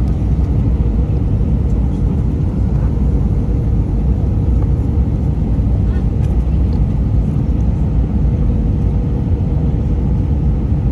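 Airbus A319 cabin noise: a steady low rumble of engines and airflow, with a faint steady hum above it.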